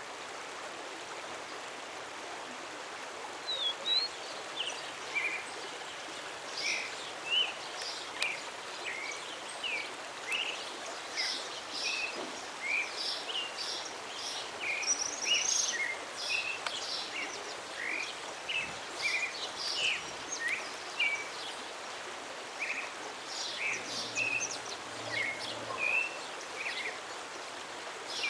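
A songbird singing a long, varied run of short, high, quick notes with brief pauses. The notes begin a few seconds in, over a steady hiss of background noise.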